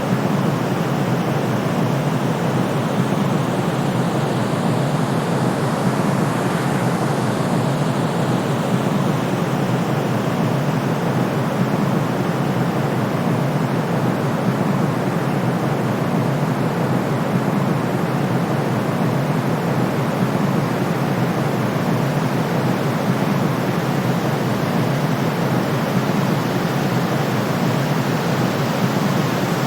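Steady, unbroken white noise for sleep: an even rushing hiss, weighted toward the low end like pink noise, with no changes or breaks.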